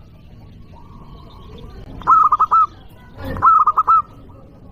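Zebra dove (local perkutut) cooing loudly: two phrases of quick, looping coo notes, the first about two seconds in and the second about a second later.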